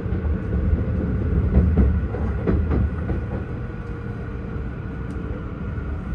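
Tohoku Shinkansen train (Hayabusa E5 and Komachi E6 sets coupled) running, heard from inside the passenger cabin: a steady low rumble with a few clicks from the track, getting slightly quieter in the second half.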